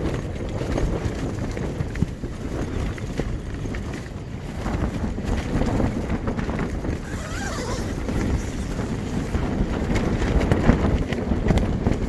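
Strong gusting wind buffeting the microphone: a low, rumbling roar that swells and eases in gusts.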